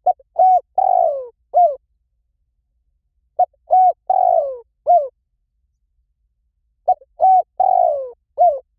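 Spotted dove cooing: three phrases, each a short note, a coo, a longer coo falling in pitch and a final short coo, repeated about every three and a half seconds.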